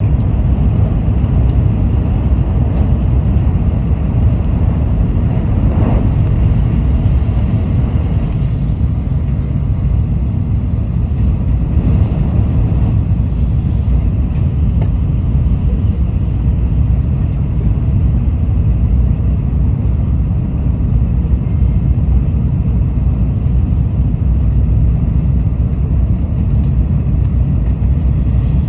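Steady low rumble of a Tokaido Shinkansen bullet train running.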